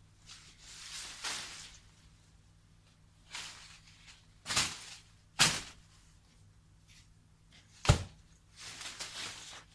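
A few spells of rustling or scraping, broken by three sharp knocks: two about a second apart midway and a louder one near the end.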